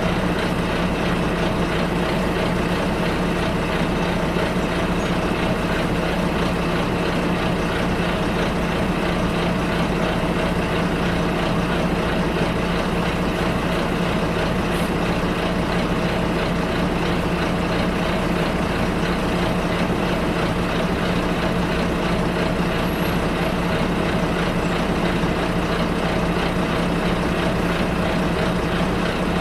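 A bus running steadily, heard from inside the cabin: a constant engine hum under even road and rolling noise.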